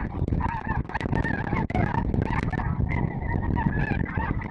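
A flock of snow geese calling, many overlapping high, yelping honks that never let up.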